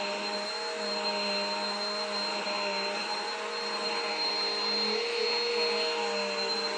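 Vacuum cleaner running steadily, its motor humming with a high whine and a rushing hiss of air, while it is pushed over a bedroom floor.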